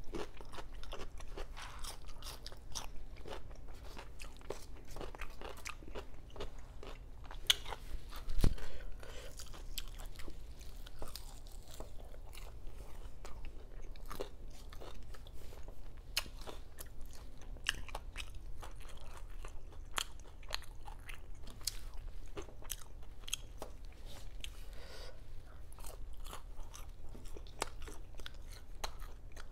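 Close-miked crunching and chewing of crispy fried pork belly (lechon kawali), many small crackles of the crisp skin, with one louder crack about eight seconds in.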